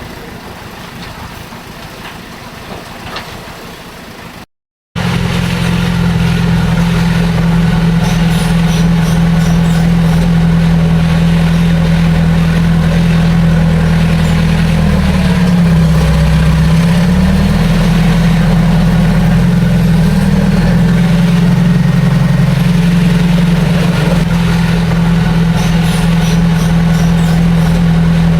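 Heavy diesel engine of earthmoving machinery running steadily and loudly, with a strong low hum whose pitch dips briefly twice around the middle. For the first few seconds a quieter engine sound plays, then it cuts out abruptly before the loud running starts.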